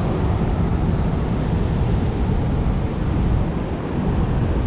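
Steady roar of rushing water from Fort Gibson Dam's heavy floodgate release, loud and even throughout.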